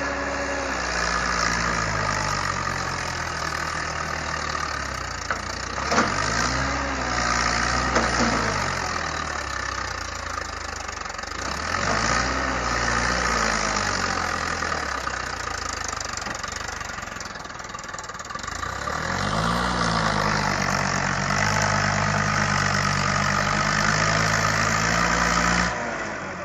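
Tractor engine running steadily, its pitch swelling up and back down in brief revs three times, with a couple of sharp knocks during the first rev. It cuts off abruptly near the end.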